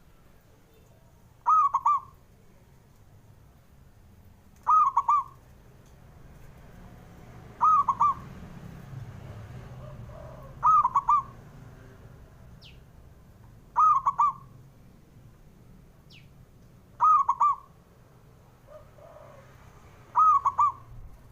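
Zebra dove (perkutut) cooing: a short phrase of a few quick rolling notes, repeated seven times at an even pace of about one every three seconds.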